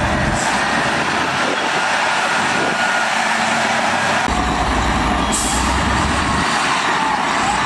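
Heavy diesel earthmoving machinery (bulldozer, loader or dump truck) running hard. The low engine note drops away and comes back about four seconds in, and a brief hiss comes a little after five seconds.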